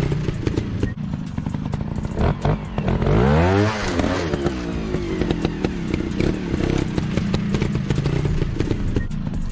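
Motorcycle engine running, with one rise and fall in pitch about three to four seconds in, over a stream of clicks and rattles.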